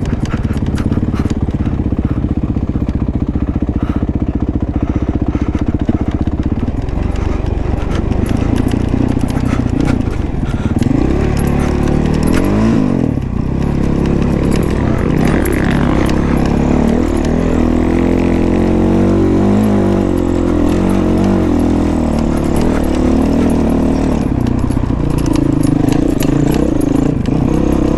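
Honda CRF450 dirt bike's single-cylinder four-stroke engine running under load on a trail ride, steady at first and then revving up and down repeatedly from about ten seconds in, with frequent rattles and knocks from the bike over rough ground.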